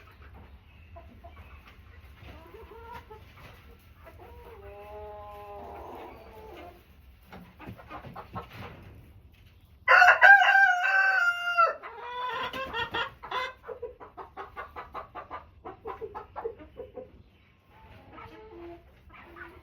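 Chickens clucking softly. About ten seconds in, a rooster crows loudly in one long held call. A quick run of clucks follows and fades away.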